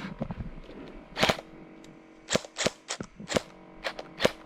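Airsoft gun firing a string of about seven single pops, irregularly spaced rather than a continuous full-auto burst.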